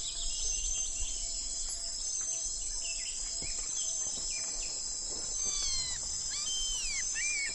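A steady, high-pitched chorus of insects, with a few short bird calls gliding downward in pitch in the second half.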